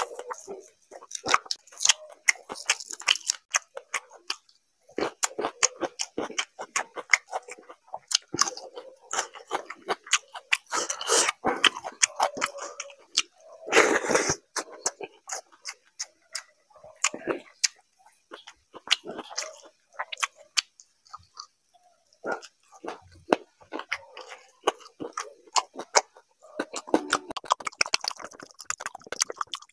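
Close-miked eating: a man chewing and smacking his lips on mouthfuls of soaked water rice and fried fish, with irregular clicks and wet squelches from his fingers working the rice in a steel plate. The loudest burst comes about halfway through.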